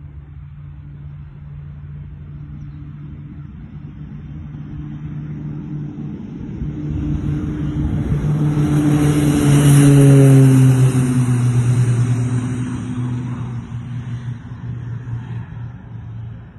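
Airplane engine flying low and passing close by. It grows louder to a peak about ten seconds in, then its pitch drops and the sound fades as it moves away.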